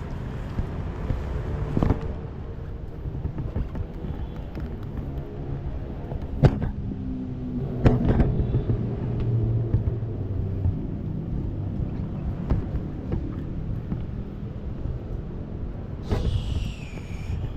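Keeway SCR 250's V-twin engine running through a Racefit free-flow exhaust: a steady low rumble with a few sharp pops, about two, six and a half and eight seconds in. A brief higher falling whine sounds near the end.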